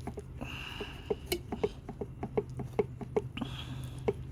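A run of short, light clicks and taps, about three or four a second, from hands working on lawn mower parts, over a steady low hum.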